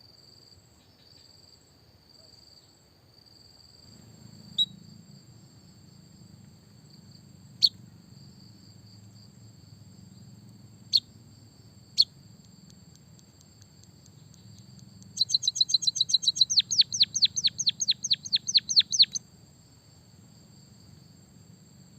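Songbird calling: single sharp high chirps every few seconds, then a rapid trill of falling notes lasting about four seconds. A steady high-pitched whine runs underneath throughout.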